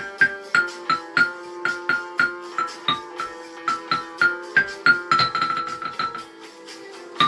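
A percussion ensemble plays a melody on tuned struck instruments, bells and xylophone-like, at about three notes a second over held lower accompaniment notes. About five seconds in, a high note is rolled for about a second. The playing then thins out, and a single strong stroke comes near the end.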